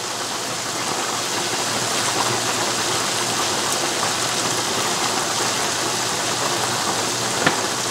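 Ground chicken and vegetables sizzling steadily in a non-stick wok over the heat, with one light click of a spoon or spatula near the end.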